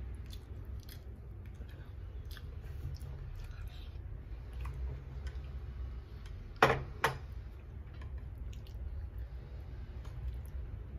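Close-up eating sounds: a man chewing and smacking mouthfuls of rice and fried fish eaten by hand, with small wet mouth clicks. About six and a half seconds in come two sharp knocks less than half a second apart, the loudest sounds.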